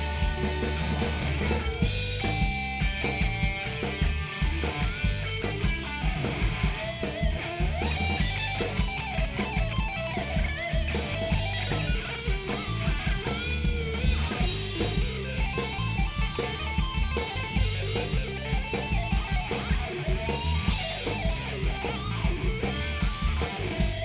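Live rock band playing an instrumental break with no vocals: an electric guitar carries a melody with bending notes over drum kit and bass, with a steady beat.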